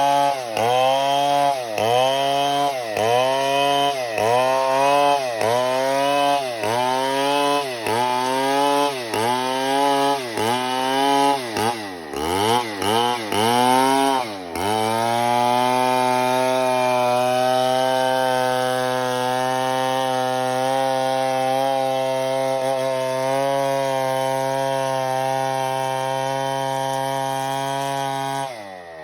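Stihl 070 two-stroke chainsaw cutting wood, its engine pitch dipping and recovering about once a second as the chain bites. It then runs at a steady pitch for over ten seconds and winds down near the end as it stops.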